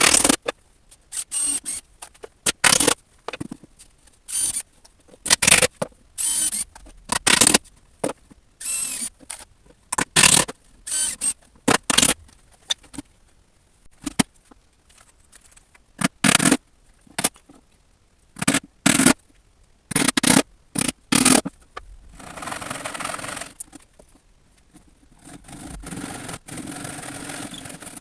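Woodworking tool noise: many short bursts, each under a second, then two longer stretches of steady scraping noise near the end.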